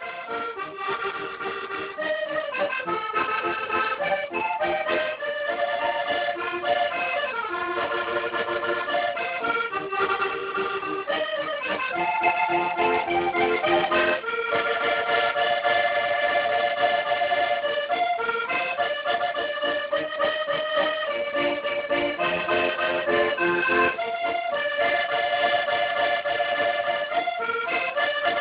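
Accordion music playing a melody over sustained chords, starting softly in the first second or two and then holding at a steady level.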